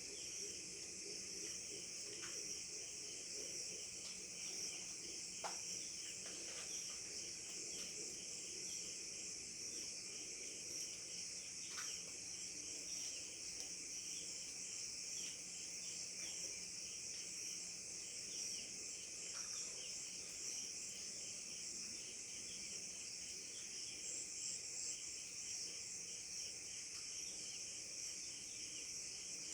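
A steady, high-pitched insect chorus, trilling continuously with a fast pulsing layer underneath, and a few faint short chirps scattered through it.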